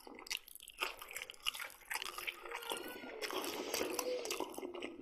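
A man biting and chewing a slice of homemade pork-head sausage (brawn), close to the microphone, with many small clicks of the mouth and teeth.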